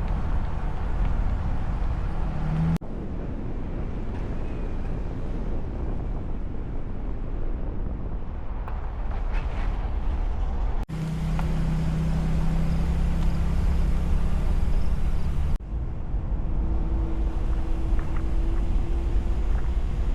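A steady low rumble with a few faint held tones, broken by sudden cuts about three, eleven and fifteen seconds in.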